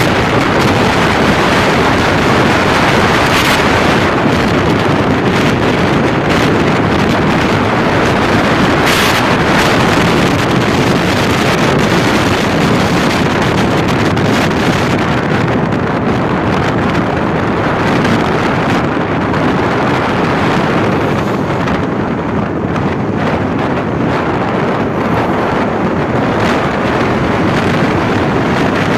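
Strong wind rushing steadily across the microphone, with occasional brief louder gusts.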